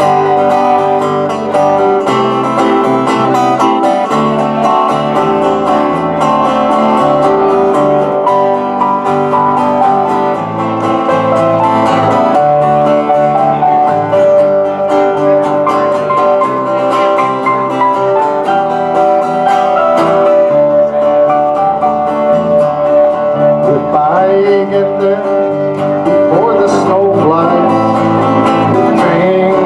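A small acoustic folk group playing live, led by strummed and plucked acoustic guitar in a steady country-folk rhythm.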